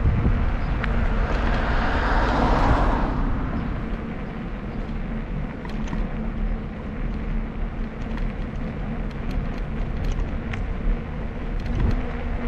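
Wind rumbling on the microphone of a bicycle-mounted camera while riding, with a vehicle passing, swelling and fading about two to three seconds in.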